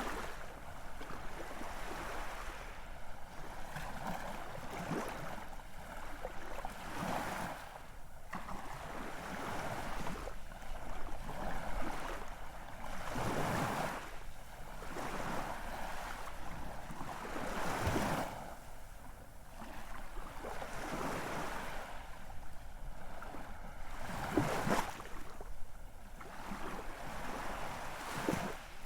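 Ocean waves: a continuous wash of surf that swells and falls back every few seconds, with a few stronger surges.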